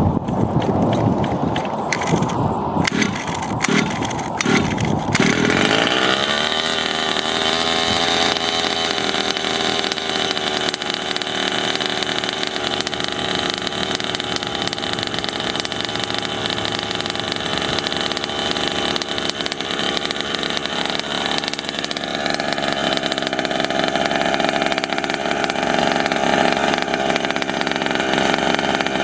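30cc two-stroke engine of a 1/5-scale RC monster truck with a tuned pipe: after a few seconds of low rumbling and a handful of clicks, it revs up sharply and then runs at high revs with a high, buzzing pitch.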